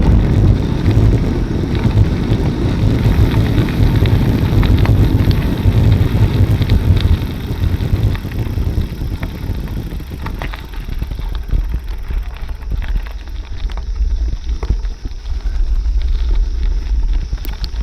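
Wind buffeting the microphone on a moving bicycle, with the bike rolling along and small rattles and clicks scattered through. The low rumble eases about halfway through.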